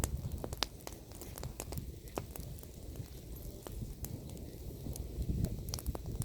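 Bonfire of pruned apple-tree branches burning, with irregular sharp crackles and pops over a low rumble that swells near the end.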